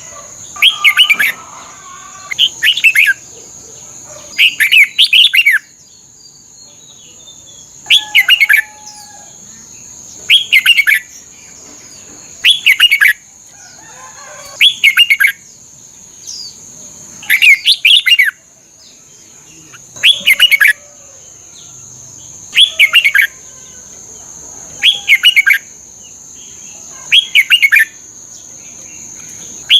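Red-whiskered bulbul singing short, bright phrases, about a dozen of them, one every two to two and a half seconds, over a steady faint high whine.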